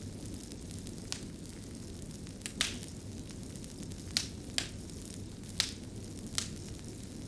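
Fire crackling: a steady low rush of burning with sharp, irregular pops and snaps, about seven of them, two close together around two and a half seconds in.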